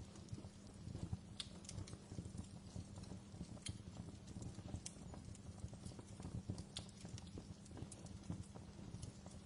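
Wood fire crackling in a fireplace: a steady low rumble of flames with irregular small crackles and a few sharper pops, about four of them standing out.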